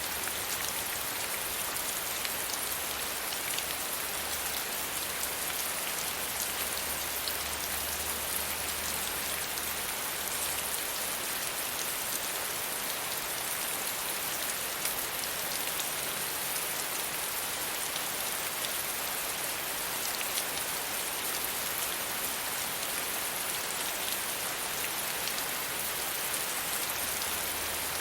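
Steady gentle rain falling, a dense even patter of many small drops.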